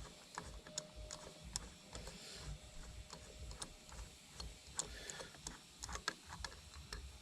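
Ratchet clicking in short strokes as a spark plug is unscrewed from the engine: a run of irregular sharp ticks, a few a second.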